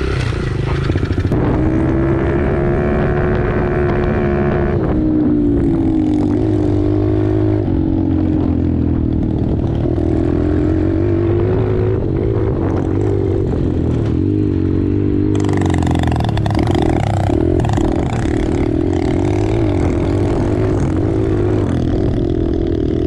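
Small 110cc four-stroke pit bike engine running under way, its pitch rising and falling with throttle and gear changes. A rush of wind noise comes in from about fifteen seconds in.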